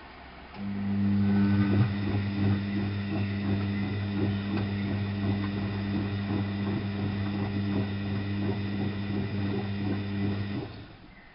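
Drain pump of an ALASKA WA8200 E washing machine switching on and running with a steady, fairly loud mains hum and a light rattle of water, then cutting off suddenly near the end.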